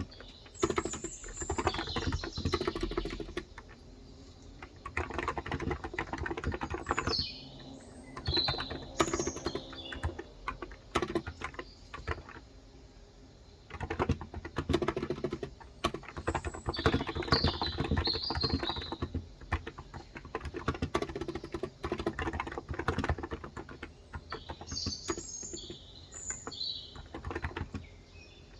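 Typing in bursts on a Cox Endeavor electro-capacitive (Topre-style) 35 g tenkeyless keyboard, with short pauses between runs of keystrokes. Birds chirp in short high phrases four times over the typing.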